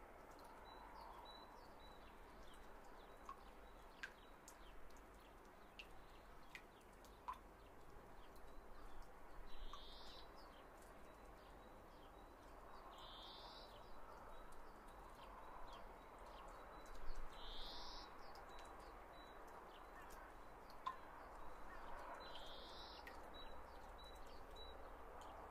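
Faint bird calls over a quiet background hiss: a short rising call repeats four times, roughly every four seconds, with scattered small ticks between.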